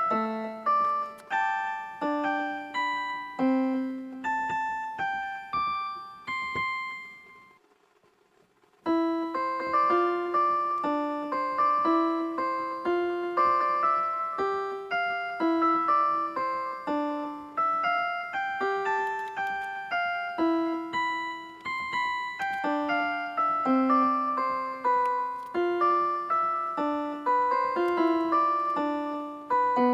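Background music played on an electric piano or keyboard, a steady run of plucky single notes over a low bass line. About seven seconds in it fades out, and after a gap of a second or two it starts again.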